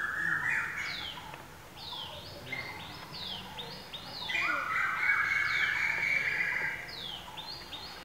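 Several songbirds singing: many short high whistles that drop in pitch, with longer lower phrases that climb in steps, loudest about four to six seconds in. The sound cuts off sharply at the end.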